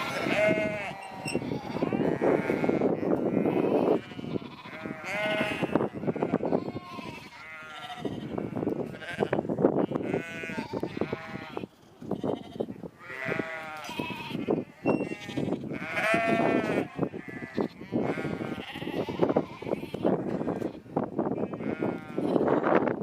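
A flock of sheep bleating: many overlapping, wavering bleats from different animals, one after another with hardly a pause.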